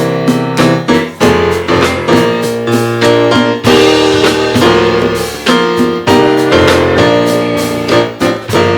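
Piano or electric keyboard playing sustained chords over a bass line, with notes struck at a steady rhythm.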